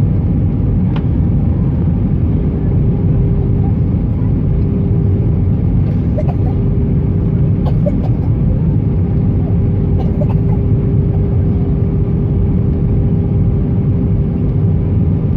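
Airbus A320 cabin noise from a passenger seat: the steady, loud roar of the engines and airflow with a constant hum running through it, and a few faint clicks.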